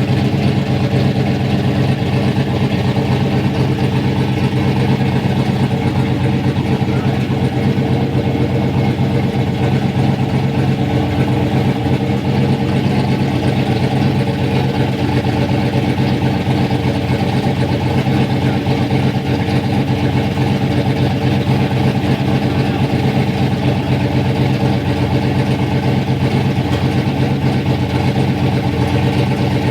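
Ford Ranger project truck's rebuilt engine running at a steady idle.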